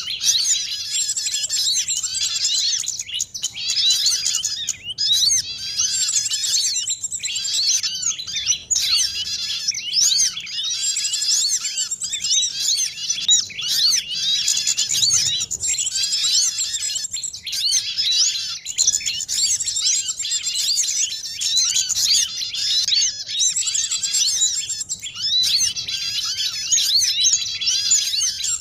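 Dense chorus of many small songbirds chirping and twittering over one another without pause: a lure recording played to draw small birds in for trapping.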